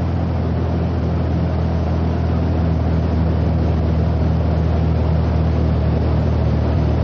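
Engines of a four-engined aircraft droning steadily, heard from inside the cabin, with a constant low hum and a slight swell in the first second or two.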